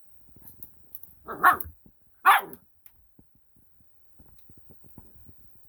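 Puppy barking twice at a humidifier, two short sharp barks under a second apart, with faint scrabbling of paws around them.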